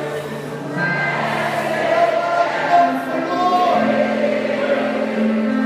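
Congregational worship singing with a band: voices hold long sung notes over sustained instrumental chords.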